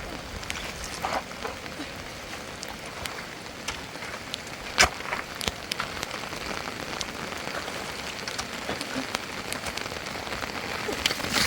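Heavy rain falling steadily on surfaces, with many scattered drops ticking close by and one sharper knock about five seconds in.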